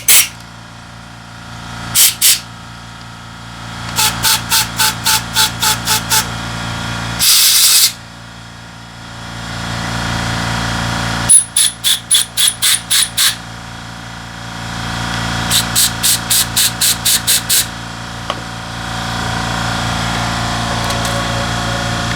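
Short hissing blasts of spray on carburetor parts during cleaning, in quick runs of about five a second, with one longer blast about seven seconds in; during one run a thin high whistle sounds with each blast. A steady low hum runs underneath.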